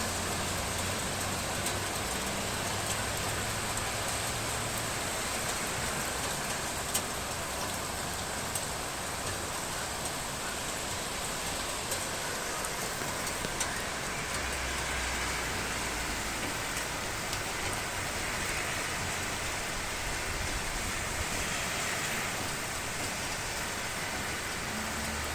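Steady rain falling, with scattered sharp drop ticks and a faint low hum underneath that comes and goes.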